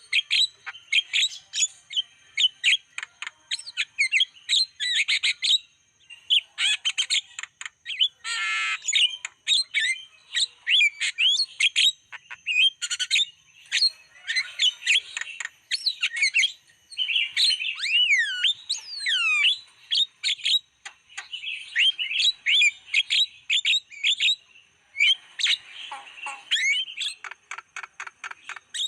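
Javan myna singing a fast, varied chatter of squeaky chirps, harsh squawks and gliding whistles, in quick runs broken by short pauses, over a faint steady high whine.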